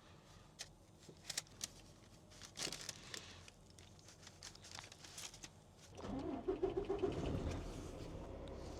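Semi truck's diesel engine starting up again about six seconds in after shutting itself off: a short rising rumble that settles into a steady idle. Before it, scattered light clicks and clatter of cooking gear.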